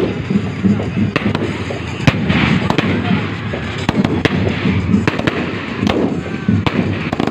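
Aerial fireworks going off in quick succession: irregular sharp bangs from bursting shells over a continuous crackle and rumble as more comets launch.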